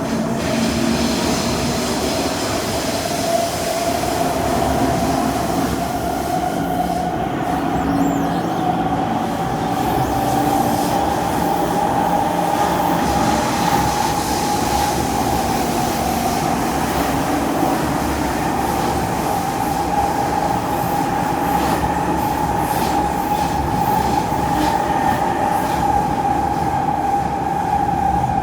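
Kawasaki C151 metro train running in a tunnel, heard from inside the car: a steady rumble of wheels on rail with a high whine that rises slightly in pitch over the first ten seconds or so and then holds steady.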